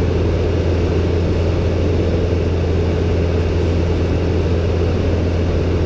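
Robin DR400-120 light aircraft in cruise, its four-cylinder Lycoming engine and propeller running as a steady, even low drone.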